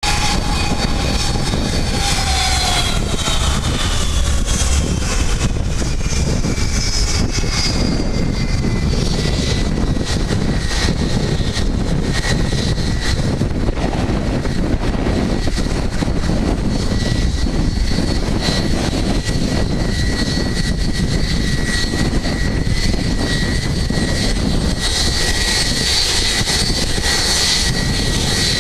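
Boeing 757 jet engines running loud for takeoff: a steady, dense roar with a high whine that glides down over the first several seconds and then holds steady.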